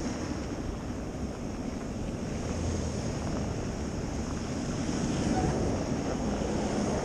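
Steady city street noise in a snowstorm: traffic rumbling past with wind buffeting the microphone, swelling slightly about five seconds in.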